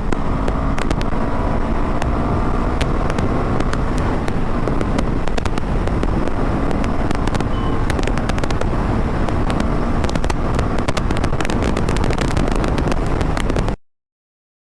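Motorcycle running steadily on the move, with wind and road noise on the microphone and many small clicks; the sound cuts off abruptly near the end.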